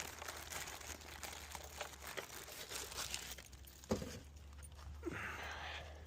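Rustling and light clicking of things being handled and rummaged, with one sharp knock about four seconds in and a short scraping rustle near the end.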